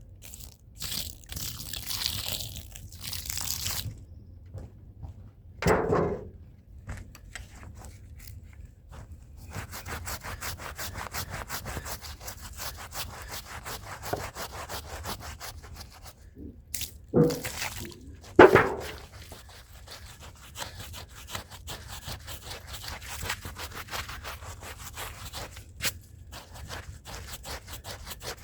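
Stiff hand brush scrubbing a rug's fibres in rapid back-and-forth strokes, a steady scratchy rasping. A few louder thumps are heard about six seconds in and again around seventeen to nineteen seconds.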